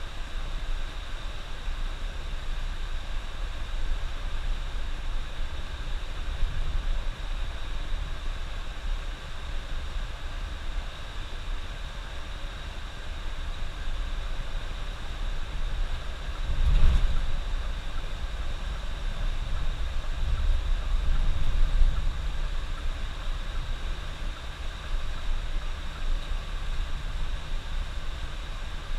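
Bus driving on the highway: a steady low rumble of engine and tyres with a hiss over it. There is a louder low bump about seventeen seconds in and a swell a few seconds later.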